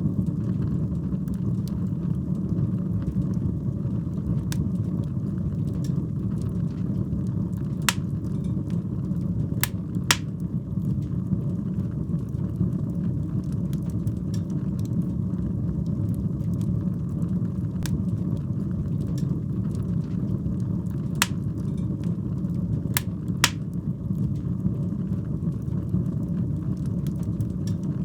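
Wood fire burning in a fireplace: a steady low sound of the flames with sharp crackles and pops every few seconds.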